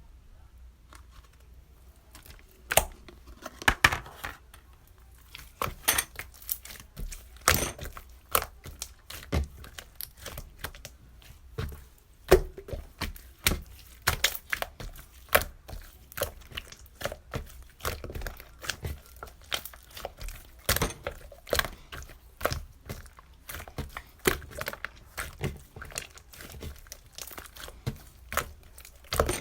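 A close-up run of irregular sharp clicks and crackles, starting about two seconds in and going on unevenly, several a second.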